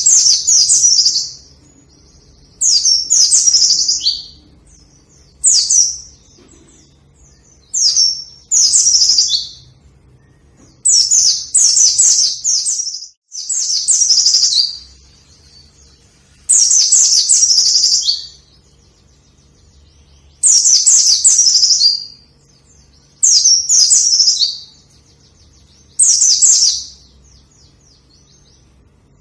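White-eye (pleci) singing vigorously: high, fast twittering phrases of one to two seconds, repeated about every three seconds, many ending on a dropping note.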